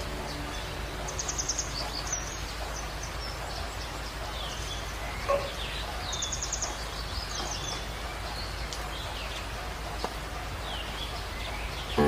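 Birds calling over a steady low hum and hiss: quick rising and falling whistled notes and short rapid trills, repeated at intervals, with one brief louder sound about five seconds in.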